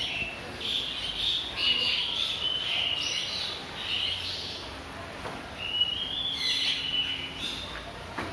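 Birds chirping and calling: a run of short high chirps and held whistling notes, one after another.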